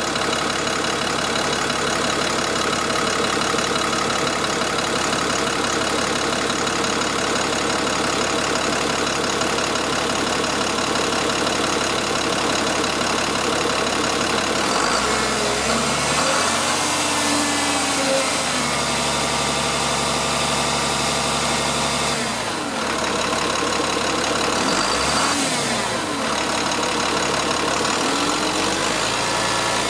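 A 2003 International 4300's DT466 7.6-litre inline-six diesel idles steadily. About halfway through, the engine speed rises and falls several times.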